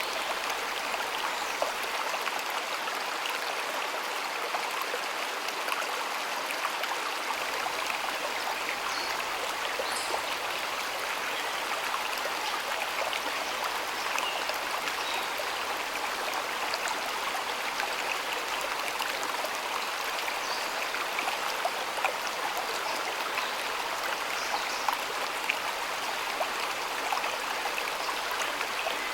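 A shallow stream flowing steadily, water trickling and splashing over stones with small scattered droplet ticks.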